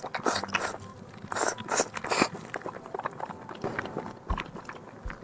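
A person biting and chewing squid close to the microphone, in irregular wet, crackly bursts. The loudest bursts come in the first two and a half seconds.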